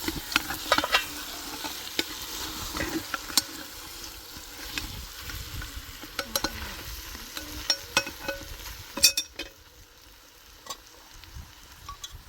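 Food sizzling in a pan while a utensil stirs it, clicking and scraping against the pan, with clusters of clicks about a second in and again near the end before it quietens.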